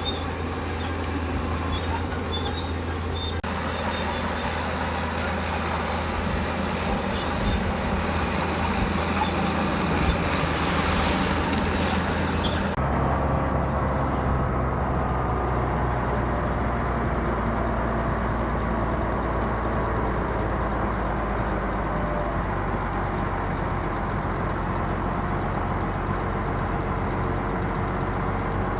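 Komatsu D65EX bulldozer's diesel engine running steadily under load. Near the middle there is a brief burst of high hiss, then the sound changes abruptly and carries on as a steadier, deeper engine drone.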